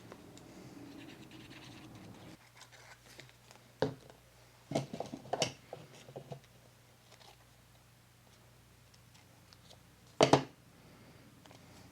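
Paper and a journal being handled and pressed on a craft table: scratching and rustling, then a run of light taps around the middle and one louder knock near the end.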